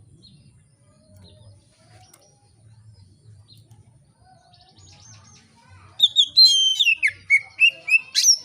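Oriental magpie-robin singing: after a faint stretch, a loud run of rapid whistled and chattering notes starts about six seconds in, with a sharp rising sweep near the end.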